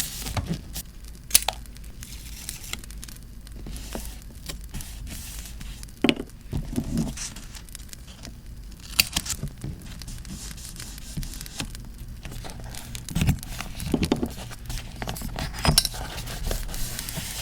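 Paper being handled for diary decorating: rustling, crinkling and tearing, with small clinks and taps now and then, over a steady crackling campfire sound.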